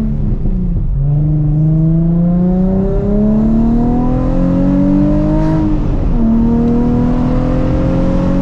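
2007 Nissan 350Z HR's V6 engine heard from inside the cabin, accelerating up through the gears of its manual gearbox. The engine pitch climbs steadily and drops back at an upshift just after the start, again about three seconds in and about six seconds in, then climbs again.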